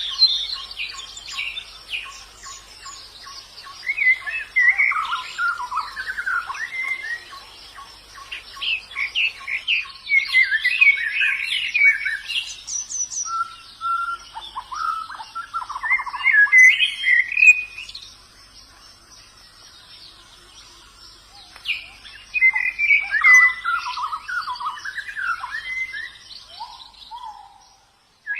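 White-eye (pleci) singing in bursts of fast, twittering phrases a few seconds long, with a pause of about three seconds past the halfway point. A faint steady high tone sounds in the background.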